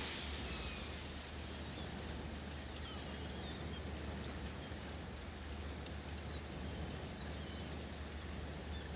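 Steady outdoor wind ambience with a few faint, high, short bird chirps.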